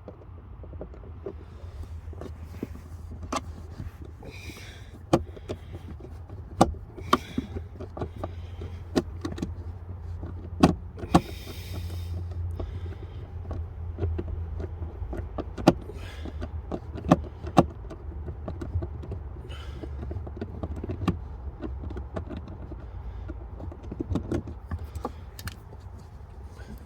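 Blower motor assembly being unscrewed and worked down from under the dashboard: scattered sharp plastic clicks and knocks with a few short scrapes, over a steady low rumble.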